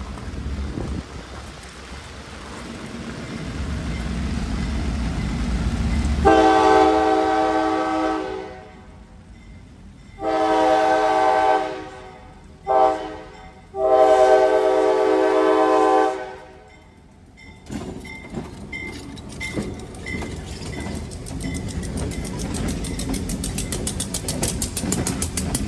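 Diesel freight locomotive horn sounding the grade-crossing signal: two long blasts, a short one and a final long one, after the engine rumble grows louder on approach. Then the locomotives run slowly past, with engine noise and a steady rhythmic clicking of wheels over rail joints.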